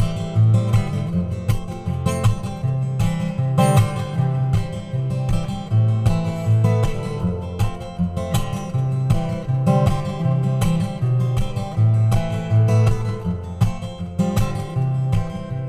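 Acoustic guitar strummed in a steady rhythm, the instrumental intro of a folk song, with alternating bass notes under each chord. It is played through a reverb pedal that leaves a sustained, organ-like wash ringing behind the strums.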